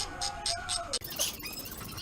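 Ratchet wrench clicking in quick, even strokes, about four a second, as a 14 mm bolt on the axle bearing carrier is backed out. About a second in the sound cuts off abruptly and gives way to scattered clicks and squeaks.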